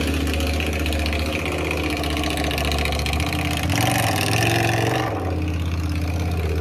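Motorcycle engine idling steadily, with a short rise in revs about four seconds in before it settles back to idle.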